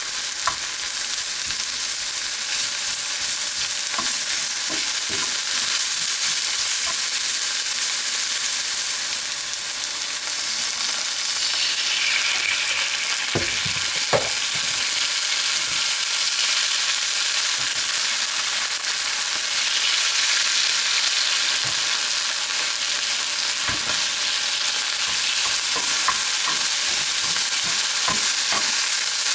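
Food sizzling steadily as it fries in a hot pan, with occasional knocks of a utensil as it is stirred, two of them louder about halfway through.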